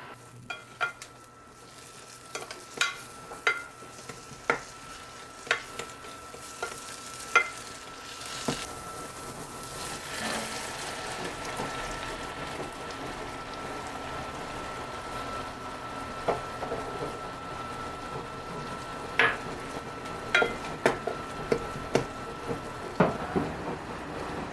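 Cooking at the stove: sharp knocks and taps of a utensil against a pan or bowl, then food frying in a pan with a steady sizzle from about nine seconds in, with more knocks and stirring near the end.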